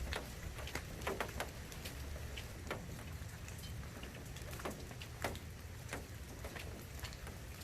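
Light rain falling steadily, with scattered drops tapping irregularly on nearby surfaces.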